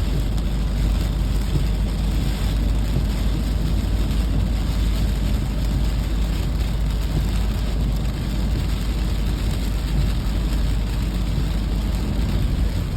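Steady rain with a heavy, constant low rumble underneath.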